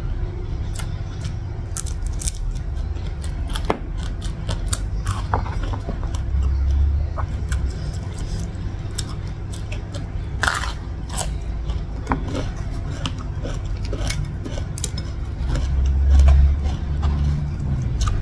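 Close-up chewing and crunching of raw vegetables and rice, with many short sharp crunches throughout. A steady low rumble runs underneath and swells twice.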